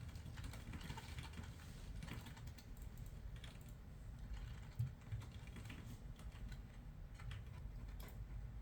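Computer keyboard being typed on: quick, irregular keystroke clicks over a low steady hum, with one louder knock about five seconds in.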